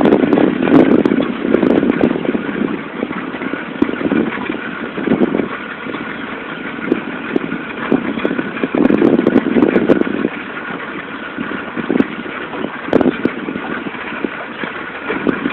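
Motorboat engine running steadily as the boat cruises along, with a noisy rush that swells and fades every few seconds.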